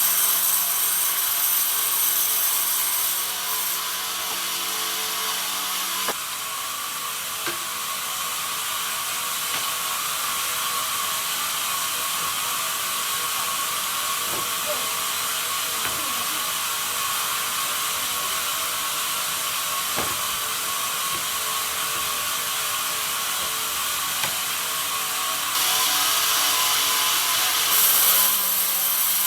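Band sawmill running and sawing pine, a steady mechanical noise with a constant whine. The sound turns brighter and hissier for the first few seconds and again from about 26 seconds in.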